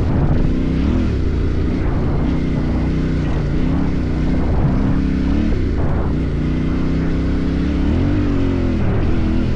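Off-road motorcycle engine running under load, its revs rising and falling again and again with the throttle.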